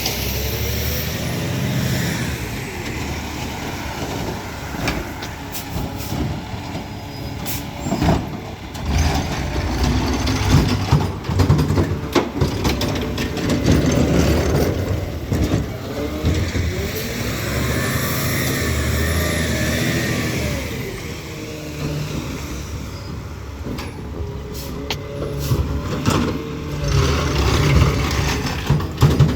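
Peterbilt 520 McNeilus ZR garbage truck working: its diesel engine runs and revs up and down several times, with a rising and falling whine and sharp hisses and bangs in between.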